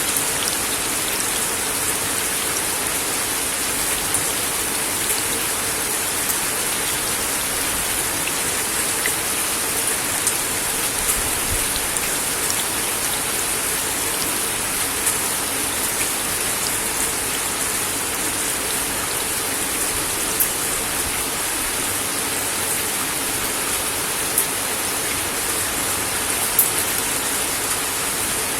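Steady rain falling on a wooden deck: an even, dense hiss of drops, with a few louder single drop hits standing out in the second half.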